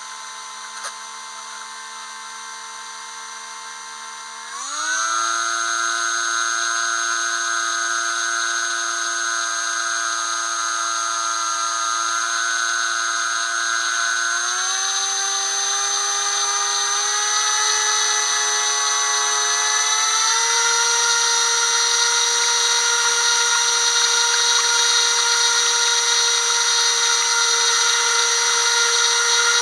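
High-pitched whine of the small brushless electric motors of an FPV craft running under throttle. The pitch is held steady and steps up three times: about four seconds in, around halfway, and about two-thirds through. It gets clearly louder at the first step.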